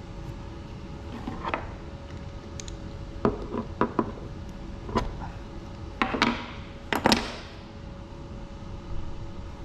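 Metal tools clinking and scraping against the parts of a 12-valve Cummins diesel injector as it is taken apart: several sharp clinks with a short ring, the loudest around six to seven seconds in.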